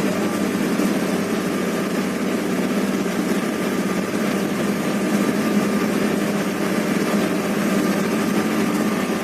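Steady drone of a train locomotive heard from inside its cab, a constant hum with a low steady note throughout.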